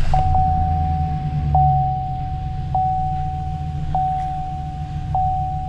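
Chevrolet Silverado HD's 6.0-litre V8 running at idle, a steady low rumble, with a thin steady electronic tone over it that is broken by a short click about every second and a quarter.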